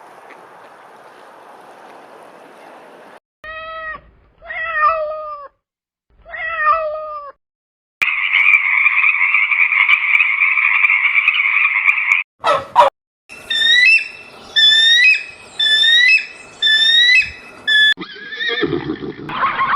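A string of animal sound clips: three meows that fall in pitch, then a steady buzzing for about four seconds, then a run of about six short, high, upward-hooked calls, and a different call near the end.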